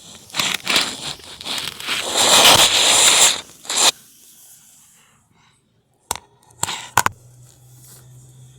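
Loud rustling and scraping close to the microphone for about four seconds, then a few sharp clicks and a faint low steady hum.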